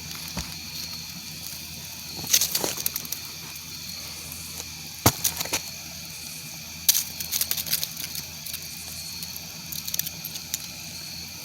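Campfire crackling, with short clusters of sharp pops every few seconds over a steady low hiss.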